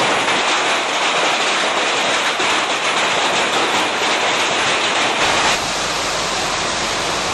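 Heavy hail pelting down, a loud, dense, unbroken hiss of countless hailstone impacts. About five seconds in the sound shifts slightly, with a low hum joining it.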